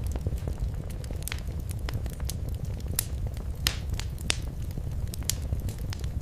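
Wood fire crackling in a fireplace: a steady low rumble of flame with irregular sharp pops and snaps, a few louder ones a little past the middle.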